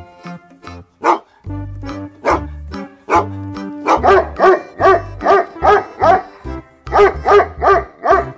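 Background music with a steady bass beat, with a run of repeated dog barks, about two a second, through the second half.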